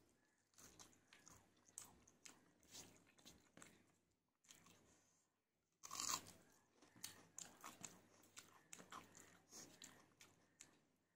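Close-up crunchy chewing of a mouthful of food. About six seconds in comes the loudest crunch, a bite into a whole raw onion, followed by more crunchy chewing.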